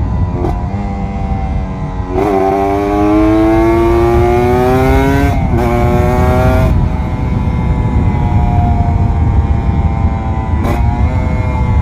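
Kawasaki Ninja RR 150's two-stroke single-cylinder engine under way: the revs climb from about two seconds in, break for a quick gear change just past five seconds, then ease off, with another shift near the end. A steady wind rush runs underneath.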